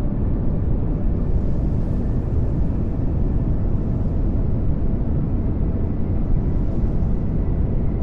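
Steady pink noise: an even, unchanging rushing hiss weighted toward the low end.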